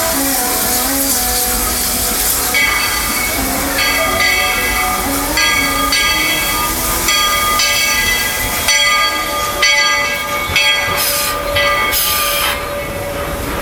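Narrow-gauge steam locomotive getting underway: steam hissing in sudden bursts and a whistle sounding in a series of held blasts.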